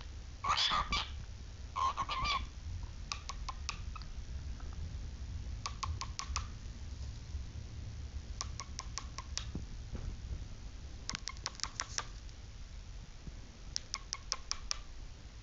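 Cockatiel giving two short chirping calls in the first couple of seconds, then bursts of quick, sharp clicking sounds, about five to eight clicks at a time, every two to three seconds.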